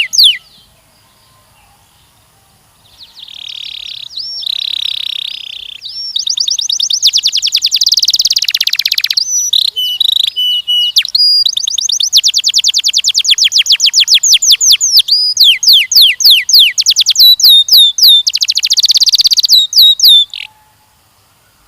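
Canary singing a long song made of rapid trills, each a fast run of repeated down-slurred notes, switching from one trill to the next. A short snatch of song is cut off at the very start; after a quiet gap the song resumes about three seconds in and stops abruptly about a second before the end.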